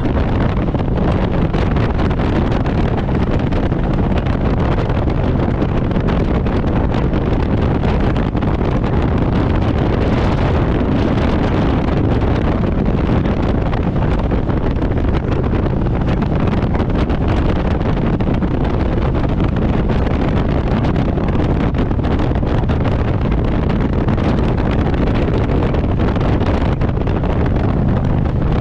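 Harley-Davidson Road Glide's V-twin engine running steadily under way at cruising speed, with wind rushing over the microphone.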